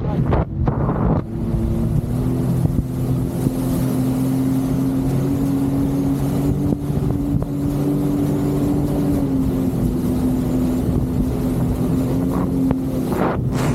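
Jet ski engine running at a steady cruising speed, with wind and water rushing past. The sound breaks up briefly just after the start and again near the end.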